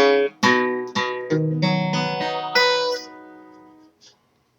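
Guitar strumming the closing chords of a gospel song. The final chord rings out and fades away about three to four seconds in, followed by a faint click.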